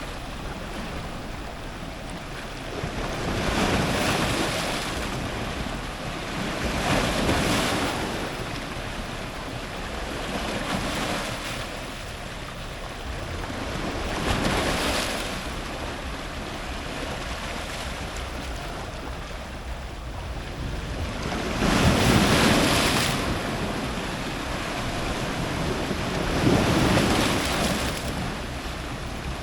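Strong ocean surf breaking on rocks close to the waterline. Waves rush and crash in swells every few seconds, the loudest about three-quarters of the way through.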